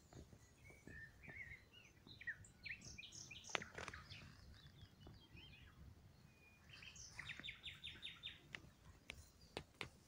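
Small songbirds chirping and whistling, with varied short calls in the first half and a quick run of about eight even notes a little past the middle. A few sharp clicks cut in, the loudest about three and a half seconds in.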